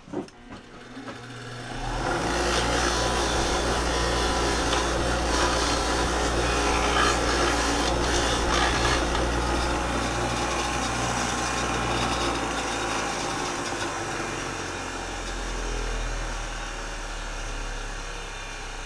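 Electric buffing wheel starting up and running while a part is held against it, a steady motor hum under a rubbing hiss. It winds down over the last few seconds.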